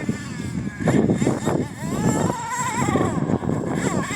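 Thunder Tiger S28 nitro engine of an MTA4 monster truck running and being revved. Its high, buzzing pitch wavers and glides up and down unevenly, with louder blips about one and one and a half seconds in.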